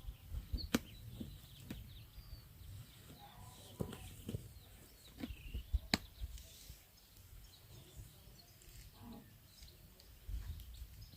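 Faint, scattered bird chirps over a low rumble, with a few sharp clicks and knocks.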